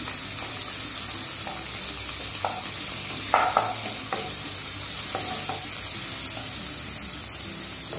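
Shallots, garlic and tomato sizzling in oil in a clay pot while a spatula stirs and mashes them, scraping against the pot now and then. The loudest scrape comes about three and a half seconds in.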